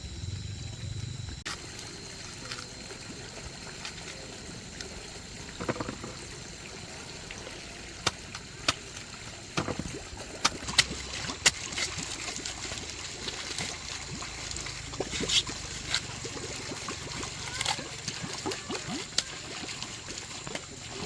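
Water trickling and splashing, with many sharp clicks and knocks from about eight seconds in, over faint steady high-pitched tones.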